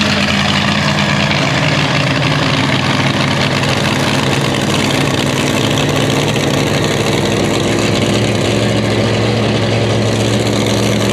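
Pulling tractor's engine idling loudly and steadily close by, holding an even pitch without revving.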